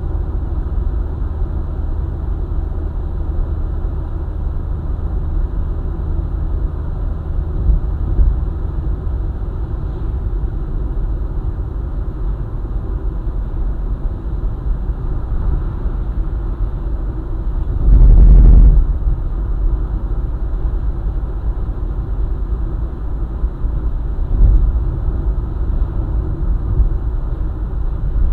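Car driving on a highway: a steady low rumble of road and engine noise, with one brief loud burst lasting under a second about two-thirds of the way through.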